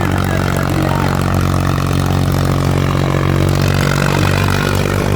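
Ghazi tractor's diesel engine running steadily at a constant speed.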